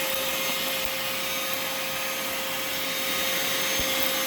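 Vacmaster 2.5-gallon, 2 HP shop vacuum running steadily: a constant whine over the rush of air through the hose and nozzle.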